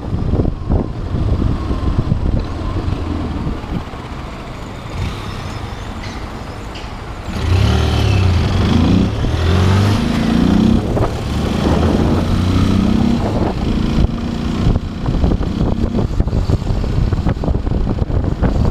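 Motorcycle engine on the move, with wind noise on the camera microphone. About seven seconds in it gets louder and accelerates, its pitch rising and dropping back several times as it shifts up through the gears.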